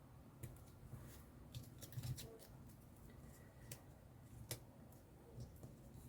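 Faint paper-handling sounds with scattered small clicks and snips, a cluster of them about two seconds in and one sharper click past the middle.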